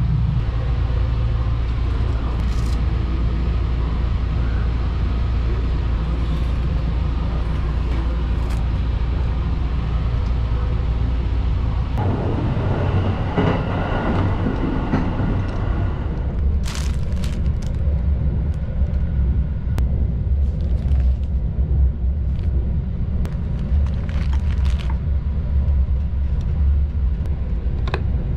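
Steady low rumble of the Sunrise Seto sleeper train, a 285 series electric multiple unit, running, heard from inside the car. About halfway through, a rush of noise lasts a few seconds, followed by scattered light clicks and knocks.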